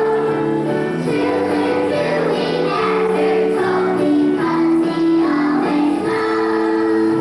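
A children's choir singing a song in unison with musical accompaniment, notes held and changing steadily.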